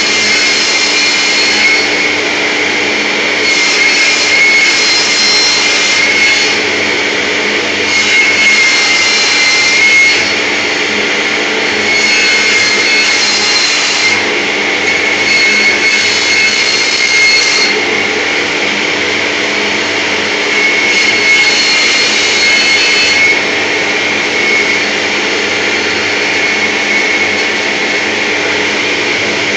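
Woodworking lathe running steadily with a constant whine and hum as it turns beech rollers. Five or six times the lathe cuts into the wood, each cut a hissing pass of about two seconds.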